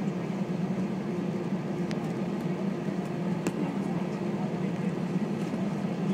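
Airbus A320 cabin noise on the ground before takeoff: a steady low hum from the engines at idle, with a few faint clicks.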